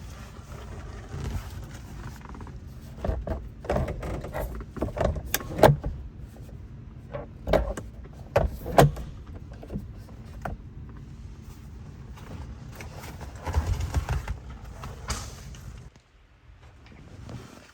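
Car engine idling steadily under a series of sharp clicks and knocks, as of doors or interior controls being worked; the idle stops abruptly about sixteen seconds in, as when the engine is switched off.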